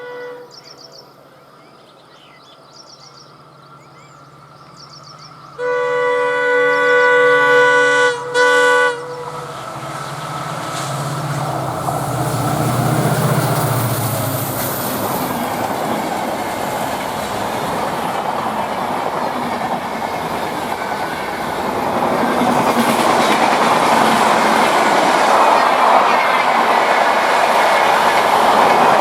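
Indian Railways WDP4D diesel locomotive sounding its horn, one long blast starting about five seconds in with a brief break near its end, after a low engine drone. The train then runs past with clickety-clack of wheels on the rails, growing louder toward the end.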